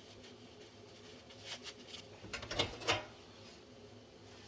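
A few light clicks and knocks of parts and tools being handled and moved, bunched together about halfway through.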